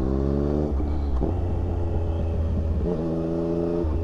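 Motorcycle engine accelerating, its note rising in pitch, then easing off about a second in to a low rumble; it pulls again with a steady higher note near the end before dropping back.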